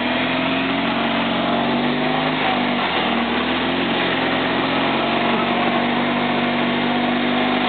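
Classic Fiat 500's air-cooled two-cylinder engine running steadily as the car moves slowly through snow, its pitch sagging and briefly breaking about three seconds in.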